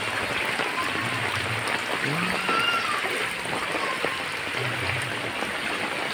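Heavy monsoon rain falling steadily on shallow floodwater and roofs, a dense even hiss of drops with no let-up.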